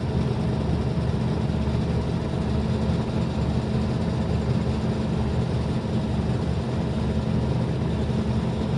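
Scania Omnicity city bus standing at idle, heard from inside the cabin: a steady low engine hum mixed with the even whir of the bus's ventilation.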